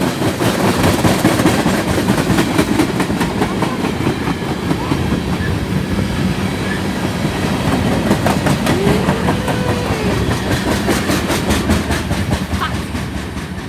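BNSF manifest freight train rolling past, with a steady rumble and a fast clickety-clack of freight-car wheels over the rail joints.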